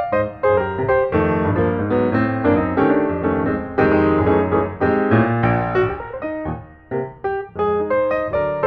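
Background piano music, a flowing run of notes.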